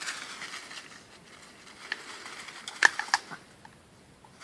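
Quiet rustling with a few sharp crackles and snaps, like dry grass or twigs underfoot, the loudest a short cluster about three seconds in.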